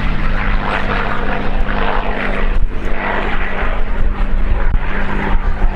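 The V12 Merlin engine of a P-51D Mustang running loud and steady: a low engine drone under dense propeller noise.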